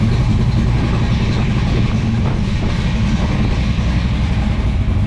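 The 1968 Chevelle's supercharged, stroked 454 big-block V8 (just over 500 cubic inches, 6-71 blower) idling steadily, heard from behind the car at its exhaust.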